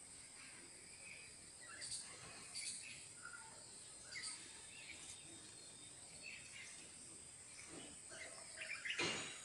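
Faint outdoor ambience with scattered short bird chirps. A brief, louder burst of noise comes near the end.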